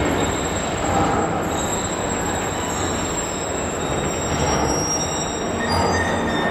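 Container freight train's flat wagons rolling slowly along the curved track, with a steady rail rumble and thin high squeals from the wheels that come and go.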